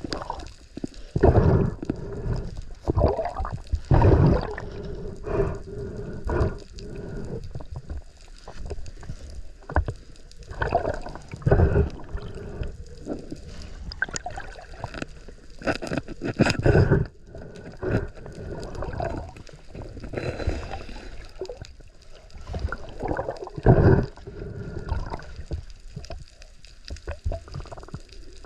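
Water sloshing and gurgling around a camera carried by a spearfishing diver, in irregular surges every second or two.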